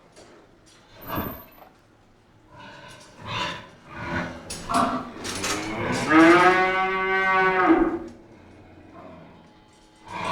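Cows in a cowshed: tether chains clinking and rattling, then one cow lowing in a long moo about six seconds in that lasts nearly two seconds.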